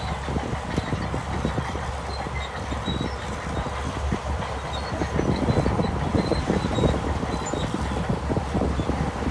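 Crawler bulldozer working, its diesel engine running with a steady low rumble under the rattle and clank of its steel tracks, getting louder about halfway through.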